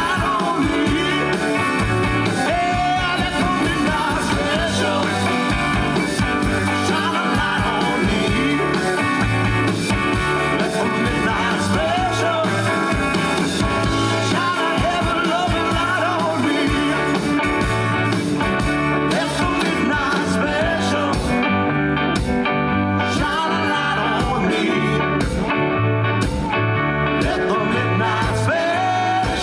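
Live rock band playing a bluesy rock-and-roll number, with guitar, a pulsing bass line and drums at a steady level.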